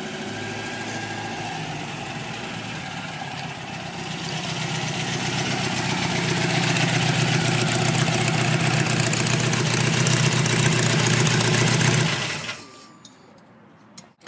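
A car engine running at a steady pitch, growing louder as it comes closer, then cutting off abruptly near the end.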